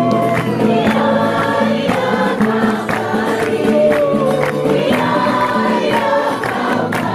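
A group of voices singing a worship song together in harmony, with regular sharp beats keeping time.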